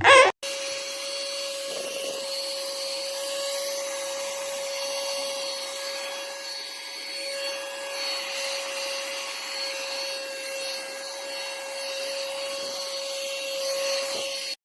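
Small cordless handheld vacuum cleaner running: a steady motor whine over the rush of air, holding one pitch until it cuts off suddenly near the end.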